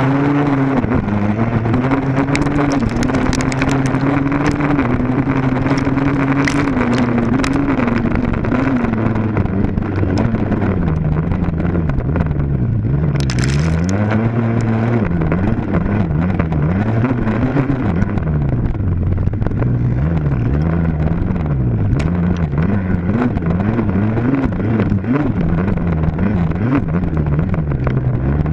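Dirt bike engine running loud and close, held at fairly steady revs for several seconds, then rising and falling again and again as the throttle is opened and closed.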